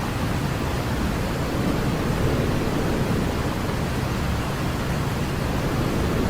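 Baby-sleep white noise: a steady, even hiss, heavier in the low end, with no change in level.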